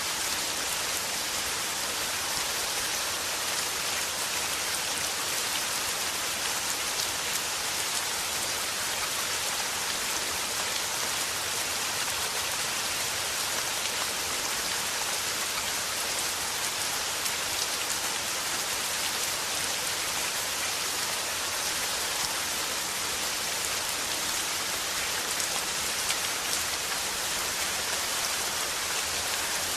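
Steady rain falling and pattering on surfaces, an even dense hiss with no let-up.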